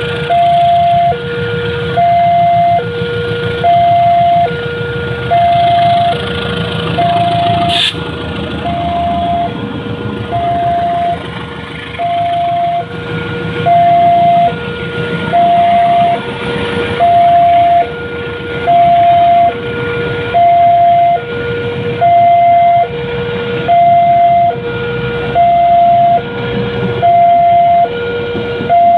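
Railway level-crossing warning alarm sounding a steady two-tone electronic signal, alternating high and low about once every 0.8 seconds, which warns that a train is coming. Beneath it is a low rumble, and one sharp click comes about 8 seconds in.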